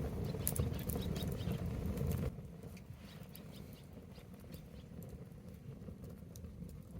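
Wood bonfire crackling with scattered sharp pops. A low rumbling noise underneath stops abruptly a little over two seconds in, leaving the quieter crackle.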